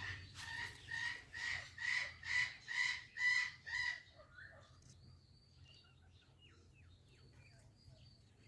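Ringneck parrot calling: a run of about nine harsh, evenly spaced squawks, a little over two a second and growing louder, then quieter short chirps and clicks from about four seconds in.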